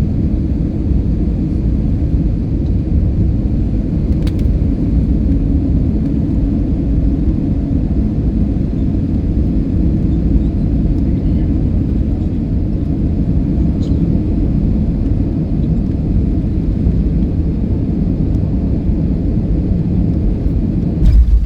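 Steady low rumble of an Airbus A320-200 heard from inside the cabin during landing, with a brief louder thump near the end.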